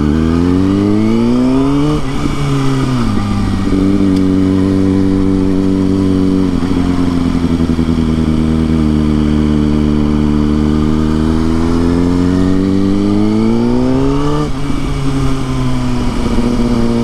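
Kawasaki ZX-6R inline-four sport bike engine under way: it revs up and drops in pitch at a gear change about two seconds in. It then holds fairly steady, climbs again and drops at another upshift near the end.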